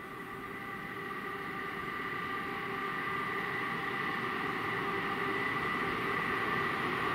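Freight train hauled by an electric locomotive approaching out of a tunnel. Its steady rumble and whine grow gradually louder.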